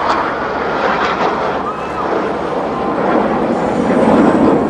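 Aircraft flying over, a loud steady rush of engine noise that swells near the end.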